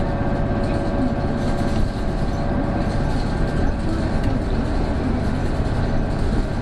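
Isuzu Erga diesel route bus under way, heard from inside the cabin: a steady engine drone with a thin, level whine over it. The whine is the bus's known abnormal noise, which sounds like an Aisin automatic transmission and comes in from about 1300 rpm as the turbo comes on.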